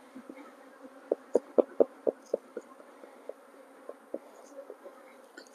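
Honeybees buzzing around an open hive: a steady hum, with several short, louder buzzes as single bees fly close by, most of them in the first half.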